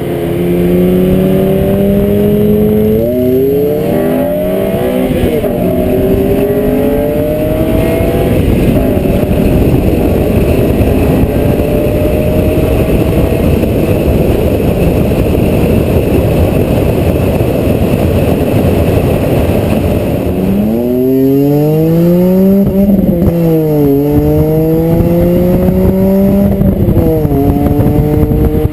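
BMW M3 E46's 3.2-litre straight-six with a Dinan exhaust, accelerating hard through the gears. The engine note climbs and drops back at each shift, and a run of downshift blips comes about 23 seconds in. Through the middle stretch a steady rush of wind and road noise covers most of the engine sound.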